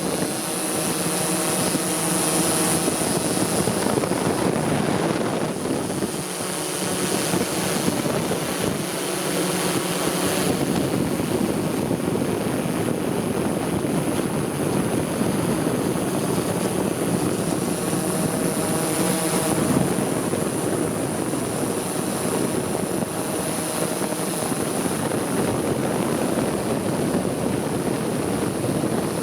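Multicopter drone's propellers whirring in flight: a steady hum whose pitch shifts now and then as the motors adjust.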